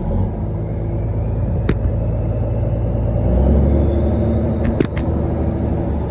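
Single-turbo Mack diesel truck engine running, heard from inside the cab, swelling louder and deeper a little past halfway before settling back. A few sharp clicks sound over it, one near two seconds in and two in quick succession near five seconds.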